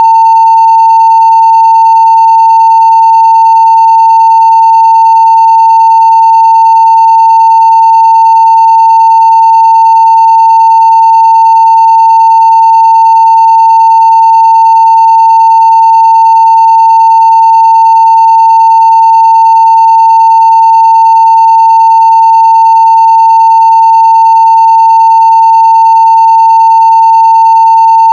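900 Hz sine-wave audio test tone at full scale (0 dB), one steady unbroken pitch with no change in level.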